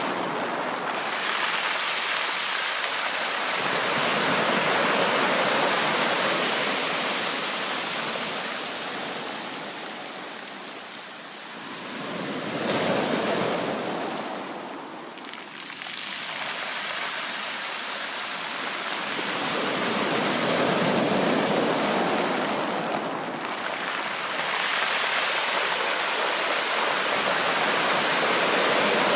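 Surf on a beach: waves breaking and washing up the shore, the rush swelling and ebbing every several seconds, with one wave breaking sharply about twelve seconds in.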